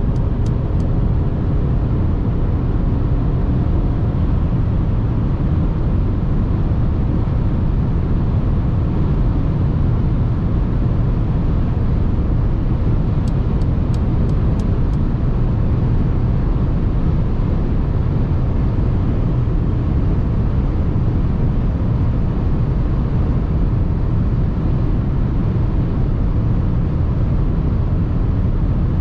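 Mercedes GLA 220d 4MATIC on the move, giving a steady, unbroken rumble of engine and tyre noise that holds level throughout.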